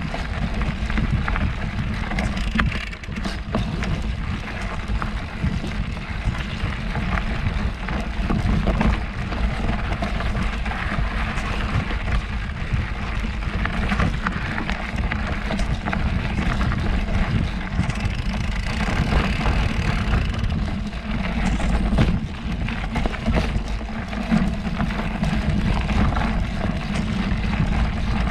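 Ride noise from a camera on a mountain bike: wind rushing over the microphone and tyres running on a dirt trail, with frequent small clicks and rattles from the bike.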